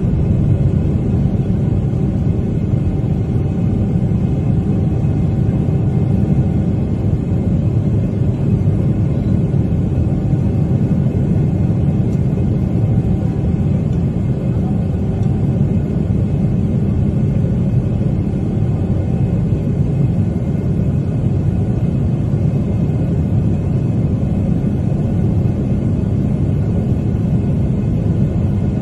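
Steady rumble of a Boeing 777's jet engines and rushing air heard inside the passenger cabin during takeoff and climb, deep and even with a faint steady hum.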